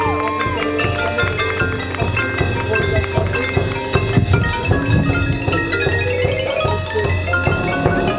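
Marching band and front-ensemble percussion playing, with marimba, xylophone and glockenspiel notes over sustained band chords and drum strikes.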